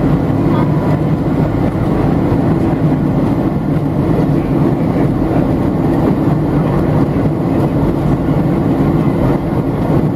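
Steady cabin noise inside a Boeing 737-700 in flight: the drone of its CFM56-7B jet engines and the airflow around the fuselage, an even, low-pitched noise without breaks.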